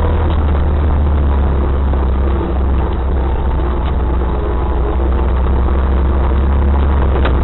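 Off-road 4x4 vehicle engine running at a steady low drone, with no revving.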